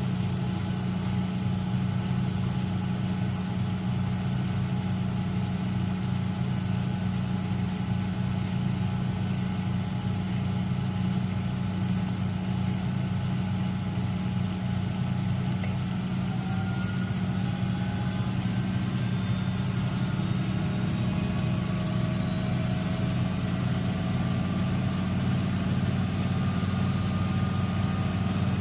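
Late-1980s Eudora Supernova EU 1001 washing machine running, a steady low motor hum throughout; from about halfway in, a whine rises steadily in pitch as the drum speeds up into a spin.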